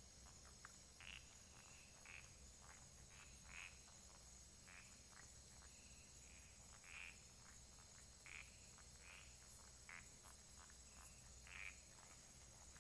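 Frogs calling faintly from a pond, short croaks at irregular intervals of about a second, over a steady high-pitched insect drone.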